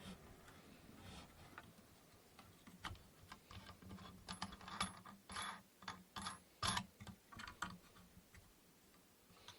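Quiet clicks and light knocks of wooden inkle loom parts being handled and fitted together, clustering into a quick run of strokes in the middle.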